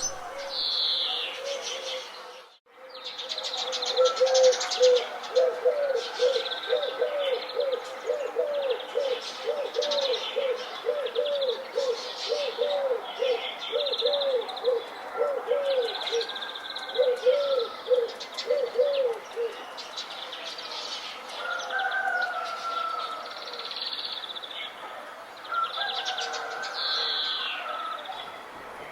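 Songbirds chirping and trilling in a chorus, joined by a low cooing call repeated about twice a second for some fifteen seconds. The sound drops out briefly near the start.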